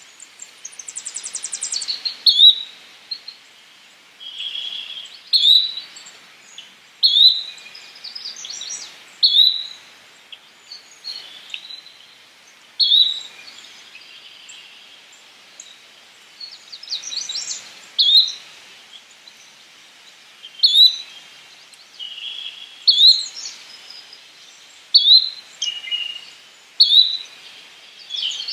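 Yellow-bellied flycatcher calling: a short, sharp upward-slurred note repeated about every two to three seconds. Other birds give faint buzzy trills in between.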